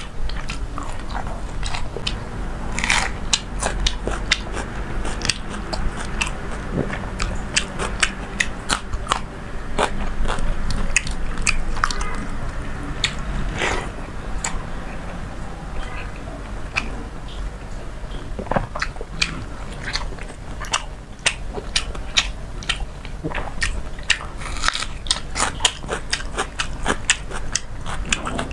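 Close-miked eating sounds of a person eating by hand a meal of fried hilsa fish and water-soaked panta rice: chewing, wet mouth smacks and crunches, coming as a dense, irregular run of sharp clicks.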